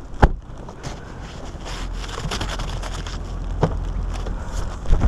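A sharp knock, then blizzard wind buffeting the microphone as a low rumble that strengthens, with scattered rustling and clicks of handling.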